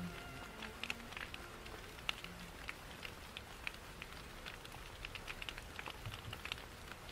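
Fireplace crackling with a steady hiss of rain behind it, played as a relaxing ambience bed. Faint music notes die away in the first second or so.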